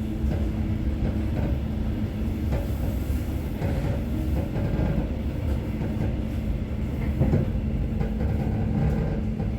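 Inside a passenger train carriage: a steady low rumble with a constant hum.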